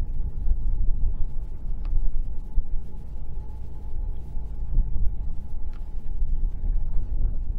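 Low rumble of a distant BNSF freight train's diesel locomotives, mixed with gusty wind buffeting the microphone. A faint steady tone runs underneath.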